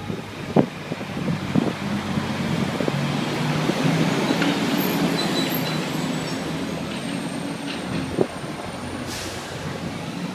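Engine of a motor vehicle running with a low, steady note that builds over the first few seconds and then slowly fades, over street noise, with a sharp knock about eight seconds in.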